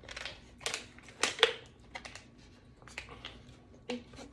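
Irregular light clicks and taps, with a few louder ones about a second in, of people eating a takeout meal: utensils and food against the containers.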